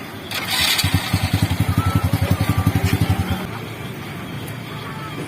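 Motorcycle engine running with rapid, even firing pulses for about two and a half seconds, then cutting off about three and a half seconds in. A short hiss comes just before it.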